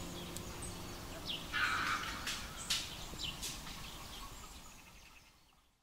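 Short bird chirps over a steady outdoor background noise, fading away near the end.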